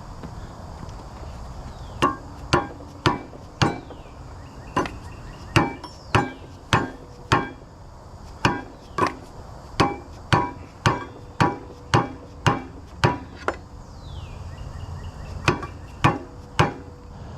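Hammer blows on metal winch parts, about twenty strikes at roughly two a second with a short ringing after each and a brief pause near the end: tapping a stuck part on the Tulsa winch shaft to knock it loose.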